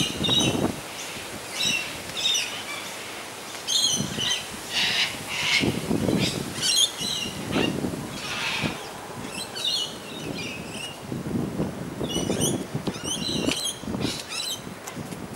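Birds chirping in short, repeated bursts of high calls, with irregular low rumbles every second or two under them.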